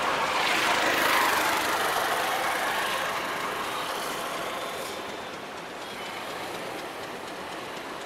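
Passenger train rolling past: an even rushing of wheels on the rails, loudest about a second in and then slowly fading as it moves away.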